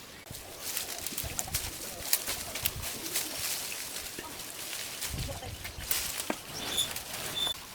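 Birds calling: two low, pulsed calls, about a second in and about five seconds in, then two short high chirps near the end, with scattered light clicks and ticks.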